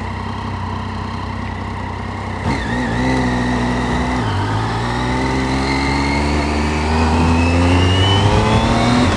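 Triumph Street Triple's three-cylinder engine under way: running low and steady at first, then about two and a half seconds in the revs pick up, dip briefly just after four seconds as a gear changes, and climb in a steady rising pitch to the end.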